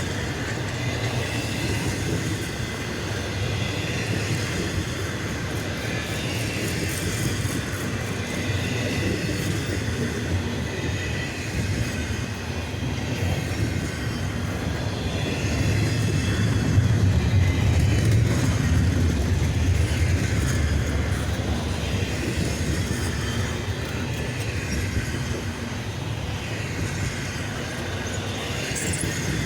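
CSX double-stack container freight train rolling past: a steady rumble of steel wheels on rail that swells a little past the middle, with faint high wheel squeal at times.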